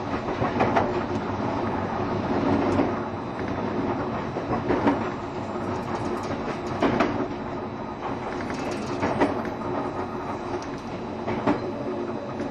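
JR Shikoku 7200 series electric train running, heard from inside the passenger car: a steady rumble and hum, with wheels clacking over rail joints about every two seconds.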